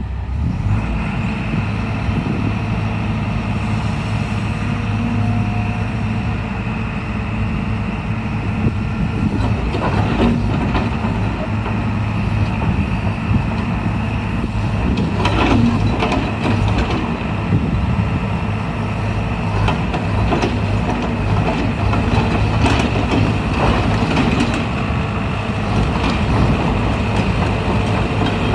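JCB JS130 tracked excavator running, its diesel engine giving a loud, steady, low hum, with a few sharp knocks now and then.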